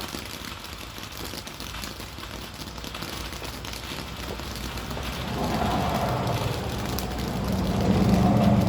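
Ground fountain firework spraying with a steady crackling hiss. About five seconds in, a vehicle engine sound grows louder and becomes the loudest sound near the end.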